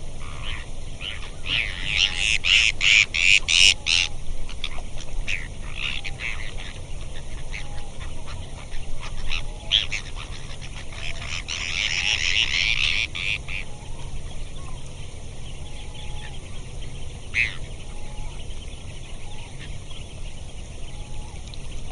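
A flock of lake waterbirds calling, with two dense bouts of overlapping calls, about two seconds in and again around eleven seconds, and scattered single calls between.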